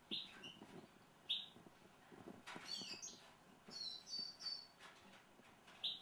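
Great tits calling: a few short, sharp chirps spread through, and in the middle a quick run of higher twittering notes.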